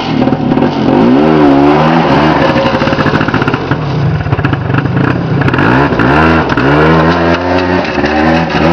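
Engine of a Polaris 90 youth ATV running under way, its pitch rising and falling again and again as the throttle is opened and eased off. The engine has idle trouble and won't run unless the gas is pushed.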